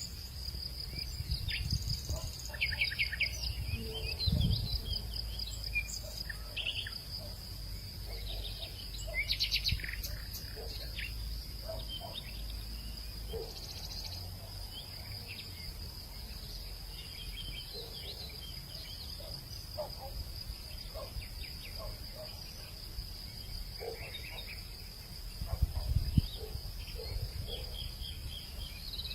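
Steady high, rapidly pulsing trill of insects such as crickets, with scattered short bird chirps over it. A low wind rumble swells twice, about four seconds in and near the end.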